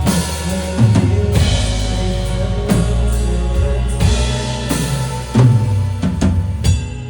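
Band playing an instrumental passage: a drum kit keeps a beat with kick and snare hits over bass and sustained chords. Near the end the drums stop and a quieter held chord remains.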